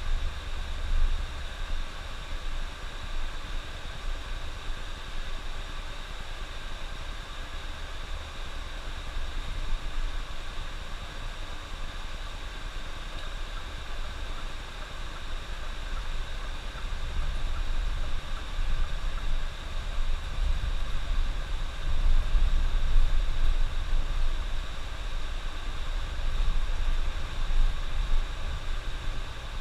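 Bus on the highway: a steady low rumble of engine and road noise with a hiss over it, heard from inside the bus. The rumble grows louder in the second half.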